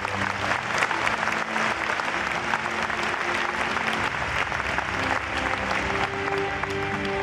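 Large audience applauding, dense steady clapping, with music playing faintly underneath; new music comes in near the end.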